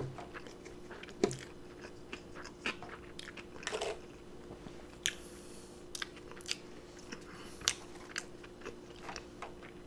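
A person chewing a mouthful of elk burger: soft, wet mouth clicks and small crunches at irregular intervals.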